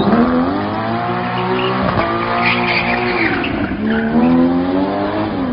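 Car engine accelerating hard through the gears: its pitch climbs, drops sharply about two seconds in at a gear change, then climbs again before falling near the end, with tyre squeal around the middle.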